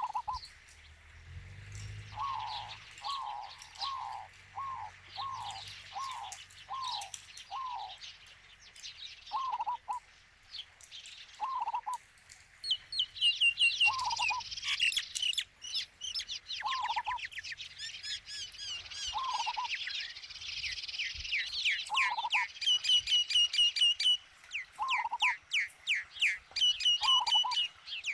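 Several wild birds singing. One repeats a short falling whistle over and over, quickly at first and then every second or two, while others give high chirps and fast trills that get busier about halfway through.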